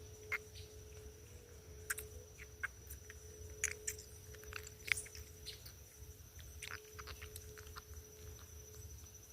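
Outdoor ambience dominated by a steady, high, thin insect trill, like a cricket's, with scattered light clicks and ticks of handling or rustling.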